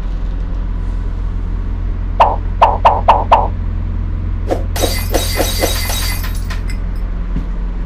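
Bus engine idling with a steady low hum. About two seconds in comes a quick run of five short, sharp, high clinks, then a few softer ones with a burst of hiss lasting about a second.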